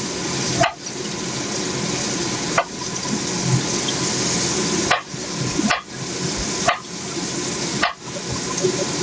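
Food frying in hot oil in a pan: a steady sizzling hiss that drops out briefly every one to two seconds.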